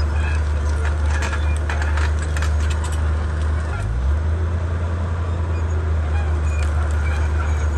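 Komatsu D31P bulldozer's diesel engine running steadily under work, its note shifting about four seconds in, with scattered clanks and cracks from the tracks and the clearing.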